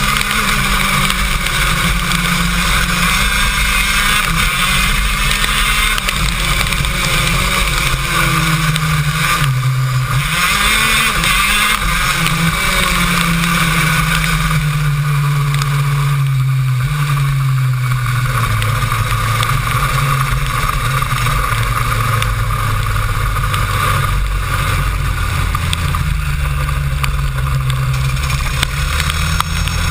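KZ2 shifter kart's 125cc two-stroke engine running at racing speed, heard onboard, its pitch rising and falling through the corners and dropping sharply then climbing back about ten seconds in, over a steady loud hiss.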